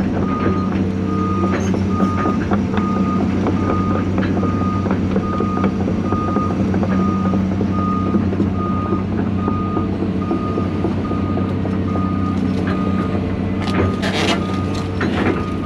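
Diesel engine of a John Deere 250G LCR excavator running steadily while its travel alarm beeps about once a second. A few sharp knocks sound near the end.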